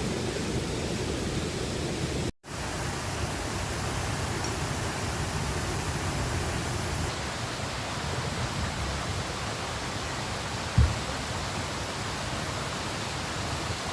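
Steady rushing of river water, an even noise that cuts out for a moment about two seconds in, with a single brief low thump toward the end.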